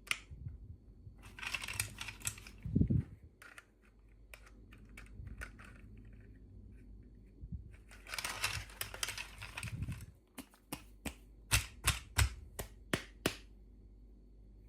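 Toy packaging being handled during an unboxing: sharp clicks and taps, two spells of rustling, a soft thump a few seconds in, and a quick run of loud clicks near the end.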